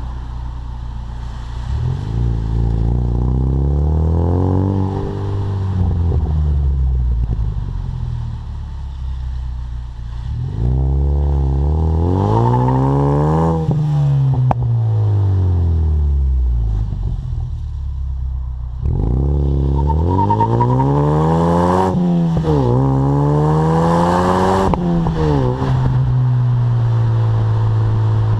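2015 Mustang EcoBoost's turbocharged 2.3-litre four-cylinder exhaling through a Magnaflow Competition exhaust, revving up and falling back three times, with a quick dip and climb in the third run, then settling to a steady lower note near the end.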